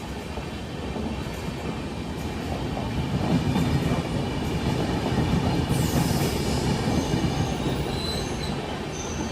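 A train passing on the rails, its wheels rumbling steadily and growing louder about three seconds in, with thin high-pitched wheel squeals coming in during the second half.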